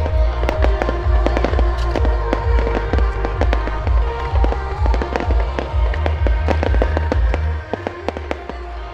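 Fireworks display: rapid, dense bangs and crackles with deep booms underneath, over music. Near the end the deep booms and most of the loudness drop away, leaving scattered bangs.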